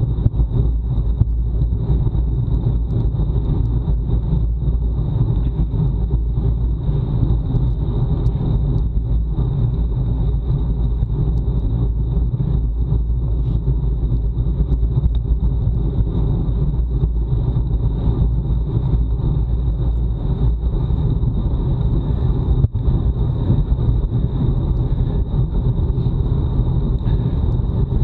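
Wind buffeting the microphone of a bike-mounted action camera while the bicycle is ridden fast, a loud steady rumble mixed with tyre and road noise. A faint steady high whine runs underneath.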